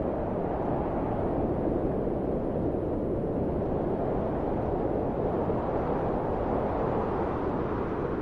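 Steady, deep rushing wind, swelling gently and easing again without pause.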